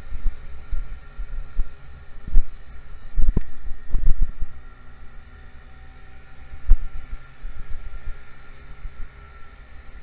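Small 50cc motorcycle engine running with a faint steady whine, under gusty wind rumble on the microphone, with several sharp thumps.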